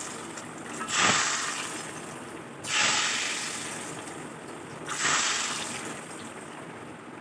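Food sizzling in a hot karahi. The hiss flares up suddenly three times, about two seconds apart, and dies down slowly in between.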